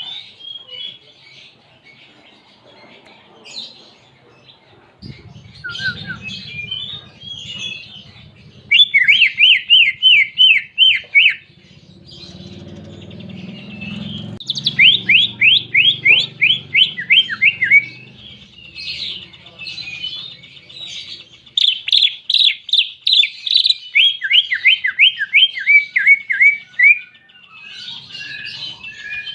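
Green leafbird (cucak ijo) singing with canary-like phrases: chattering notes broken by three long runs of quick, repeated downward-sweeping notes, several a second. A low rumble sits underneath through the middle part.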